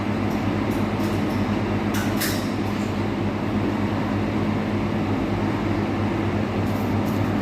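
Loud, steady mechanical drone with a low hum, as from running machinery or a vehicle, with a few faint ticks over it.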